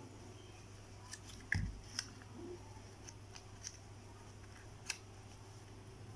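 Scattered small clicks and snaps of plastic food packaging being handled, with one louder knock about a second and a half in, over a low steady hum.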